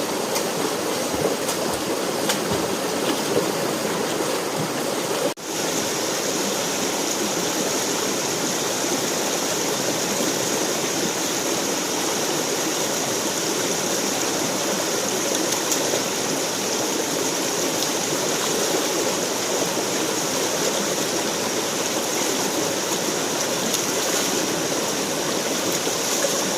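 Forest stream flowing: a steady, even rush of water, with a momentary drop about five seconds in.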